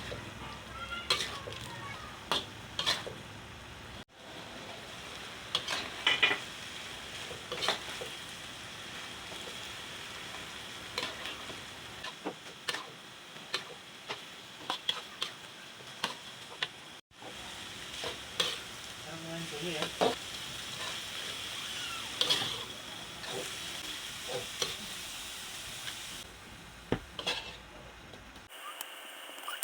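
Food sizzling in hot oil in a pan while a spatula stirs it, scraping and clicking against the metal again and again. The sizzle breaks off abruptly twice, about four seconds in and again after seventeen seconds.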